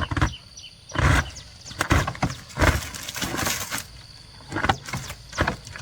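A run of irregular knocks and scrapes, about seven of them, one drawn out for nearly a second in the middle, with faint high repeated chirping in the background.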